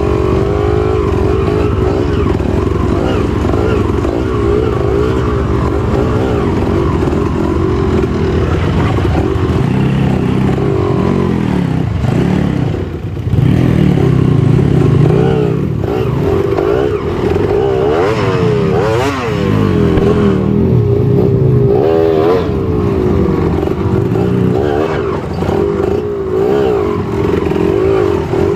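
Trail motorcycle engine working hard through thick, porridge-like mud, its revs rising and falling unevenly. The revs drop briefly about halfway through, then pick up again.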